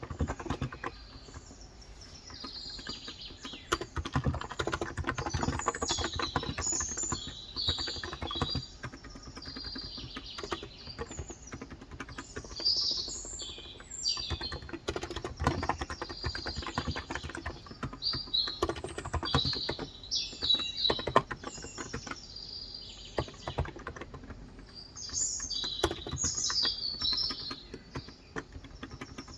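Typing on a Cox Endeavor electro-capacitive (topre-style, 35 g) tenkeyless keyboard: a fast, irregular run of soft keystrokes. Birds chirp in short clusters over it every few seconds.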